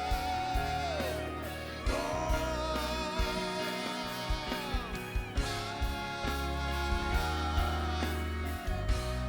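Church worship music: a voice sings a slow melody in long held notes with vibrato, over a band with sustained bass notes.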